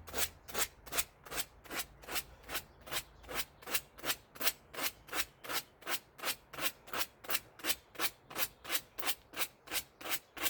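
Hand scrubbing of a crusty part, rubbed back and forth in quick, even rasping strokes, about three or four a second.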